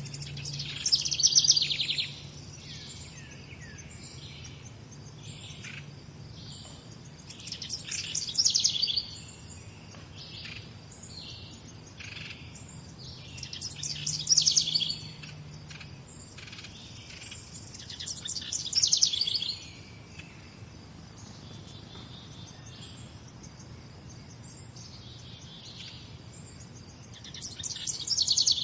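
Wild birds singing in a morning chorus. One bird repeats a loud, quick, trilled song phrase about every five seconds, five times in all, with softer chirps from other birds in between.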